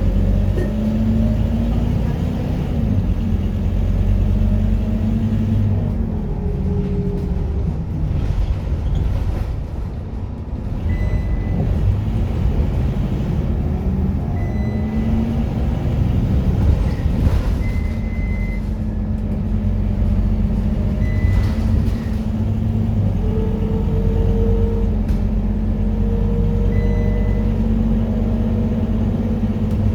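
Scania K230UB Euro 4 city bus's engine and drivetrain running under way, with engine notes that climb in pitch as it pulls away in the second half. Several short high beeps sound along the way.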